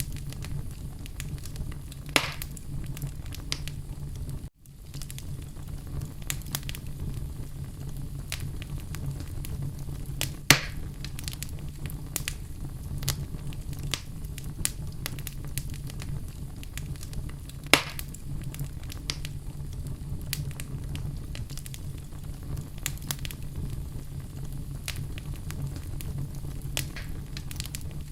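Fire burning in a fireplace: a steady low rumble of flames under constant crackling, with a few sharper pops about 2, 10 and 18 seconds in. The sound drops out for a split second at about four and a half seconds in.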